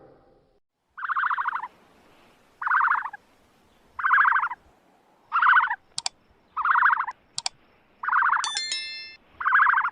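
An animal calling over and over: seven short, buzzy calls about every second and a half. A few sharp clicks and a brief chiming tone come in near the end.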